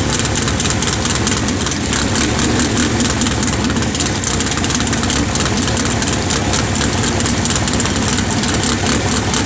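Pro Comp drag racing engine running at a loud, steady, choppy idle, the open-header cackle of a race engine fired up for show.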